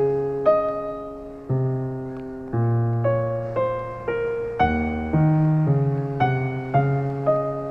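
Slow, gentle solo piano music: soft single notes and chords struck about once or twice a second, each ringing out and fading.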